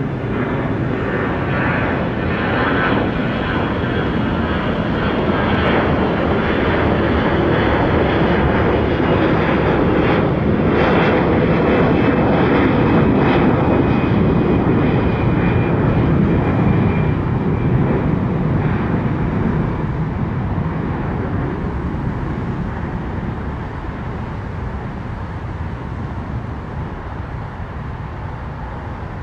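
A departing jet airliner's engines pass by on the climb-out: loud engine noise that builds to a peak about halfway through and then fades, with a high whine that falls in pitch as the aircraft goes past.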